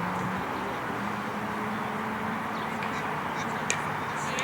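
Steady outdoor background noise at a ball field with faint distant voices, and a single sharp knock about three and a half seconds in.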